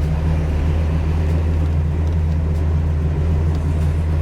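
1975 Pontiac Trans Am's 455 V8 with headers running steadily while the car cruises, heard from inside the cabin as an even low drone.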